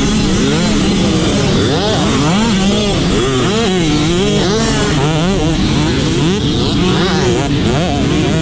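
Several motocross dirt bikes running on the track, their engines revving up and falling back again and again, overlapping one another.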